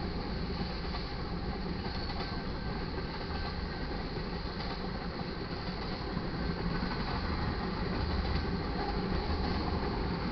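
Freight cars of a manifest train rolling past, with a steady rumble and wheel noise on the rails.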